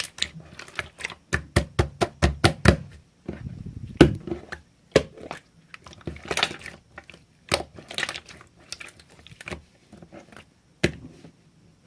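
Slime being squished and poked by hand, making sticky pops and clicks. A quick run of sharp pops in the first three seconds gives way to slower, scattered squelches.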